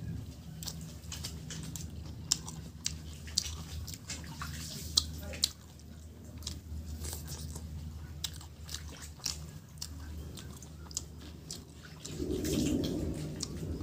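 A person eating chicken curry and rice with his hands: wet chewing and biting into chicken meat, with many sharp lip-smacking clicks over a steady low hum. About twelve seconds in, a louder squelch as his hand squeezes rice and gravy together on a steel plate.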